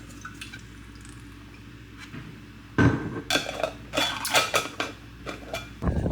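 Kitchen dishes and cutlery clattering: a few faint clicks, then from about three seconds in a quick run of sharp clinks and knocks. A louder, noisier sound starts just before the end.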